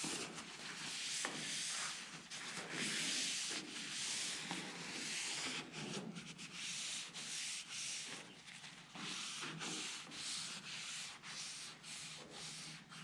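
Repeated rubbing strokes of a wipe over a taillight lens, as the toothpaste and water are wiped off after the first polishing coat.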